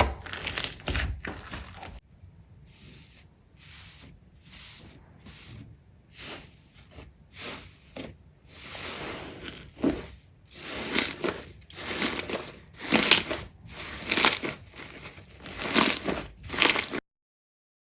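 Slime being pressed and squeezed by hand, a run of crackly, crunchy squishes that start soft and grow louder and more regular, about one a second, before cutting off suddenly near the end.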